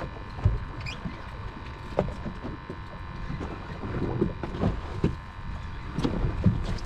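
Steady low rumble and hum of a fishing boat at sea, with scattered short knocks and clicks.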